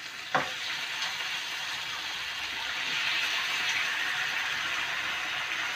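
Raw chicken pieces sizzling in hot oil on a pan of sautéed onion and tomato, a steady hiss that swells a little midway, with one short clack of utensil on pan just after the start.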